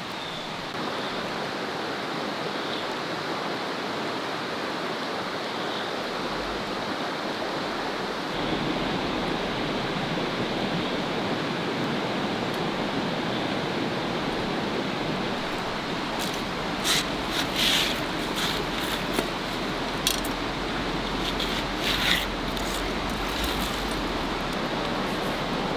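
Steady rushing outdoor noise, with a run of sharp clicks and crackles in the second half.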